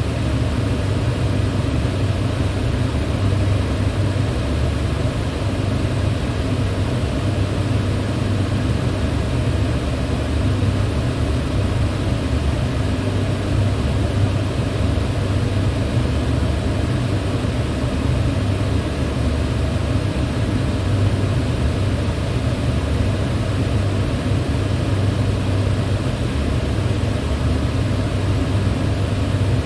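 Electric fan running at a steady speed: an even rush of moving air over a strong low hum.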